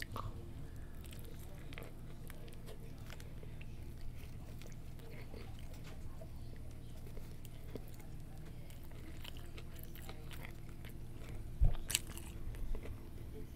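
Close-miked chewing of a chicken sandwich, soft wet mouth clicks over a low steady hum, with a couple of louder clicks near the end.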